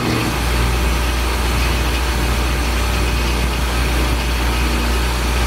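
Old wood lathe running with a small chuck mounted on its spindle: a steady, loud motor hum with a dense whirring hiss, coming up to speed right at the start.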